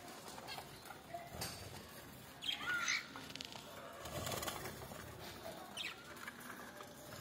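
Pet birds calling, with a loud short chirp that glides in pitch about two and a half seconds in and a smaller one near six seconds, amid brief scratchy rustles.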